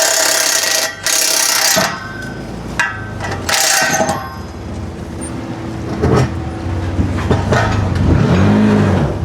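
Three short, loud bursts of a rattling impact wrench during the first four seconds. Then an engine runs, its pitch rising and falling near the end.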